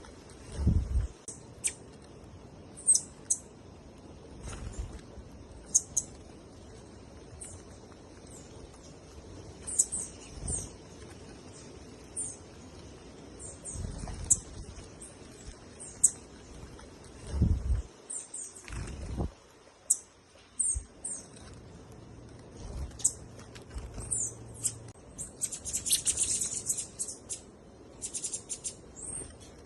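Small birds chirping: many short, high chirps, with a denser flurry of them near the end. A few low thumps are heard along with them.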